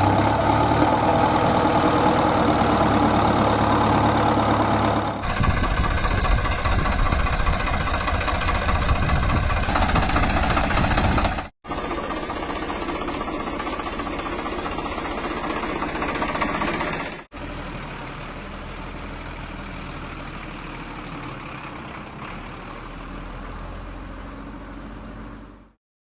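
A mini tractor's engine running at idle, heard in four cut-together stretches that change in loudness, each starting and stopping abruptly; from about 5 to 11 seconds it has a fast, even pulse.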